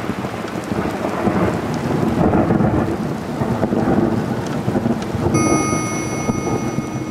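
Heavy rain pouring down, with low rumbling thunder under it. Steady held music tones fade in about five seconds in.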